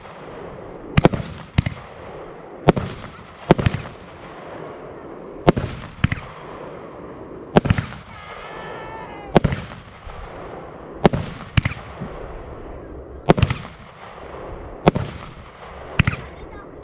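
Consumer fireworks battery (cake) firing shot after shot: sharp bangs about every one to two seconds, some coming in quick pairs, with a steady hiss between them.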